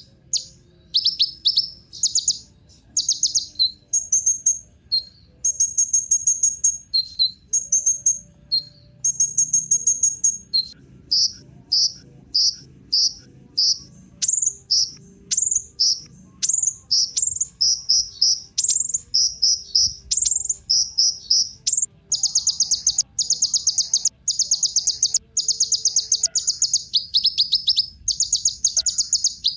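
Kolibri ninja (a sunbird) singing: rapid, high, buzzy trilled phrases of about half a second each, repeated with short gaps. From about two-thirds of the way through, the phrases run together into an almost unbroken trill.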